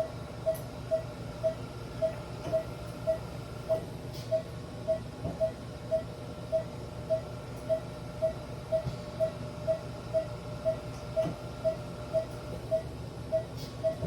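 A short pitched beep or tick repeating steadily about twice a second, over a low steady hum.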